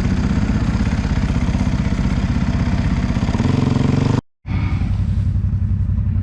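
Off-road vehicle engine running close by, its pitch rising briefly about three and a half seconds in. The sound then drops out for a moment and the engine resumes at a steadier, lower running speed.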